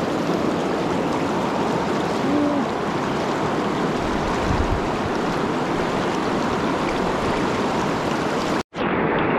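Steady rushing of a swollen river's current, broken by a brief cut near the end.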